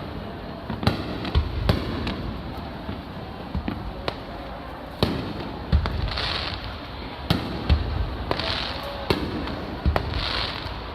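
Aerial fireworks shells bursting overhead: a rapid series of sharp bangs and deep booms, a dozen or so in about eleven seconds, with short bursts of crackling hiss after some of them.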